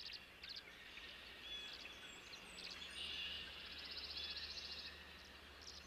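Faint outdoor ambience of scattered high bird chirps, with a brief rapid trill about four seconds in, over a steady low hum.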